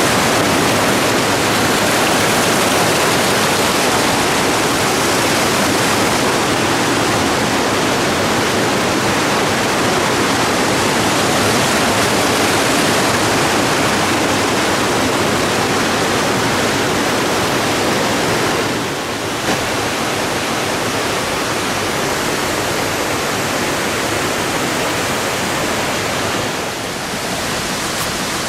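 Steady rush of a waterfall, a loud even roar of falling water that eases slightly twice, about two-thirds of the way in and near the end.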